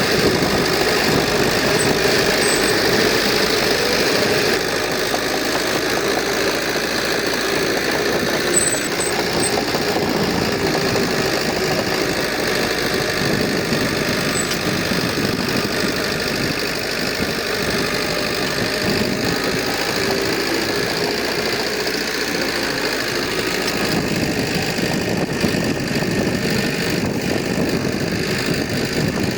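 Diesel engine of heavy earthmoving equipment running steadily under work, a continuous dense rumble with no breaks.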